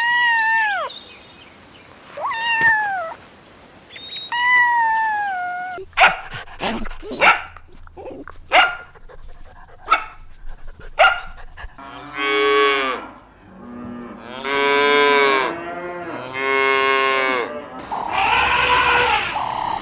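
A series of farm animal calls: three short calls falling in pitch, then a run of short sharp calls, then three long cattle moos, and a rougher call near the end.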